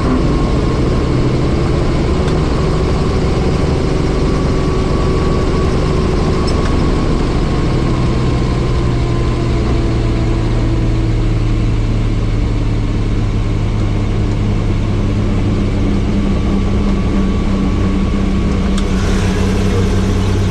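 Helicopter's rotor and turbine engine running steadily, a loud low hum with steady tones.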